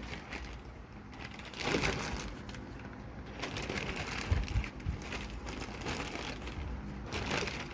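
Electric fan running with a steady low hum, with irregular rustling and scraping handling noises over it, the loudest about two seconds in.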